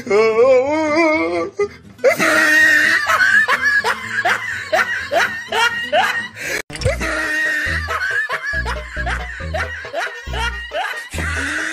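Laughter over background music: a wavering laugh at the start, then from about two seconds in a long run of rapid laughs, with a steady thumping bass beat coming in about two-thirds of the way through.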